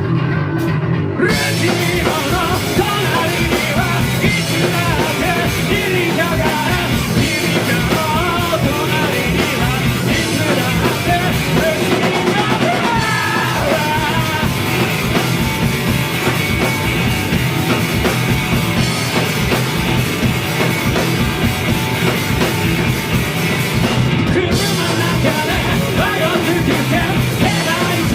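Live rock band playing loud, driving garage punk rock on electric guitars, bass and drum kit. The full band kicks in about a second in, and the cymbals drop out briefly twice.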